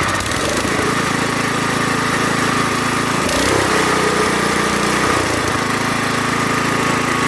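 Sears 10XL garden tractor engine running steadily. Its speed changes about three seconds in and comes back about two seconds later. The engine is worn out and has a knock that gets louder as it gets hot, which the owner links to it having run with the oil way below the add mark.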